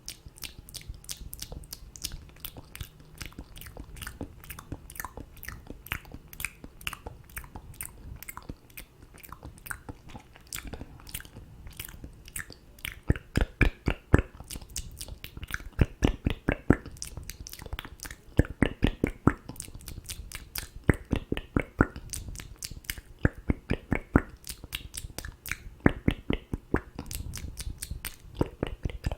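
Close-miked ASMR mouth sounds: a rapid, continuous run of wet clicks and smacks, several a second, getting louder about halfway through.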